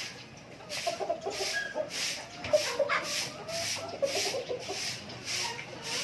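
Native chickens clucking in short, low calls, over a high hissing noise that repeats about twice a second.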